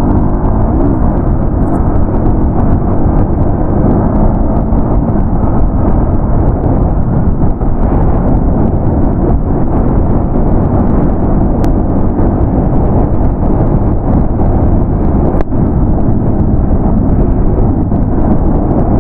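Loud, steady wind rumble battering the microphone of a phone on a moving motorcycle, covering the bike's own sound.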